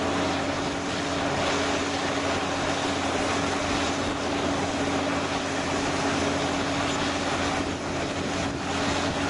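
Diesel engines of crawler bulldozers running under load while pushing soil, a steady drone with one constant held tone.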